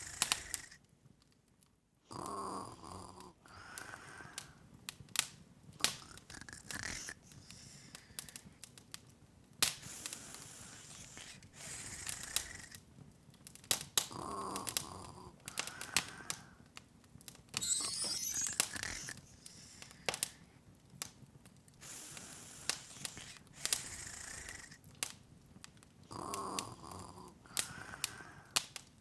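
Open wood fire crackling, with irregular sharp pops and snaps over a soft hiss. A soft breathy sound comes back about every twelve seconds, and a brief rising high shimmer sounds near the middle.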